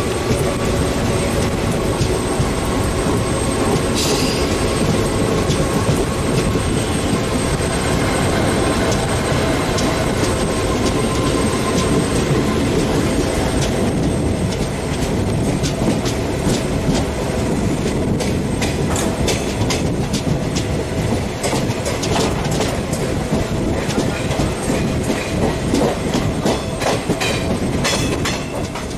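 Passenger train running, heard from the coach doorway: a steady rumble of wheels on rail with a faint squeal as it takes a curve. About halfway through, sharp clicks of wheels over rail joints begin and come thickest near the end.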